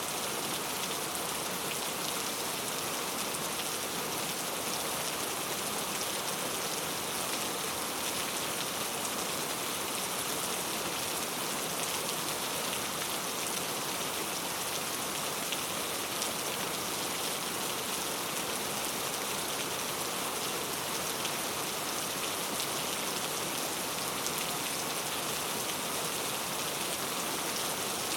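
Steady rainfall, an even hiss of many drops falling on a surface, with no change in strength.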